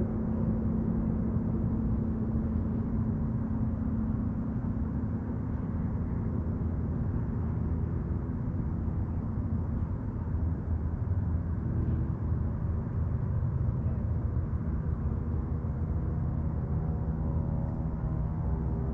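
Steady low rumble of a distant motorboat engine, with a steady hum that fades after the first few seconds.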